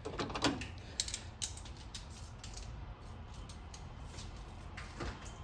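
Ratchet wrench clicking in short, irregular runs as the lower intake plenum manifold bolts on a 3.8L V6 are tightened, with another burst of clicks near the end.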